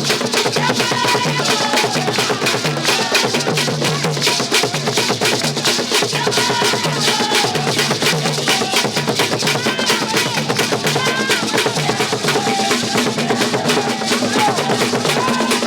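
Music driven by fast, dense drumming, with a low note pulsing about twice a second and a wavering melody above it.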